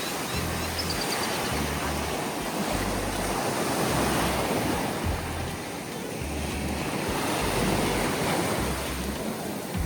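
Sea surf washing onto the beach in slow swells, with wind buffeting the microphone in low rumbles.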